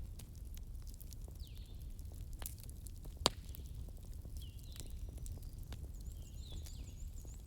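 Burning logs crackling in a fireplace: scattered sharp snaps over the low rumble of the flames, with one loud pop about three seconds in.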